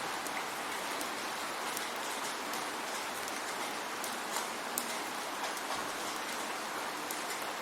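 Steady rainfall with individual drops ticking sharply on a nearby surface.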